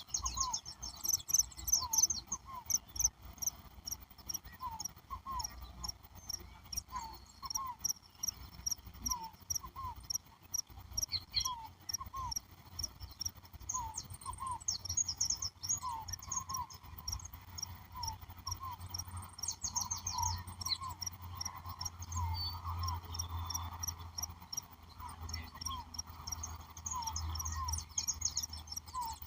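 A chorus of chirping insects, crickets among them. Short paired chirps repeat about once a second, over clusters of higher, faster chirping, with a low rumble underneath.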